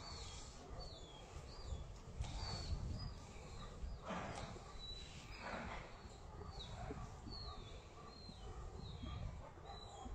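A bird calling over and over, short falling chirps about every half second, over a low wind rumble. Two brief rustles come near the middle.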